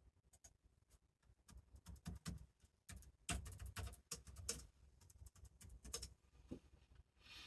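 Faint, irregular tapping and clicking of typing on a computer keyboard, with a denser flurry of keystrokes around the middle.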